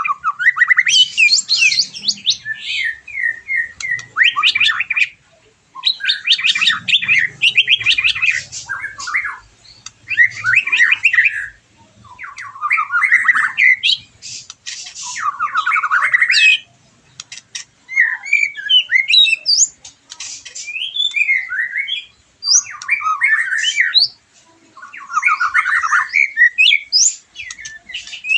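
White-rumped shama (murai batu) singing a lure song meant to provoke caged shamas: rapid phrases of varied whistles and chattering notes, each a second or two long, broken by short pauses.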